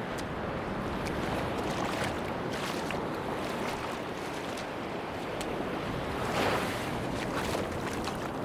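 Sea waves washing on a beach, a steady rush that swells about six seconds in, with scattered faint ticks through it.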